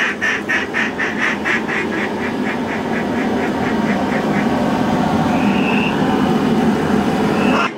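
A fast, evenly spaced run of mallard hen quacks, about four a second, growing fainter and dying out about halfway through, over a steady rushing noise; a short higher call follows near the end.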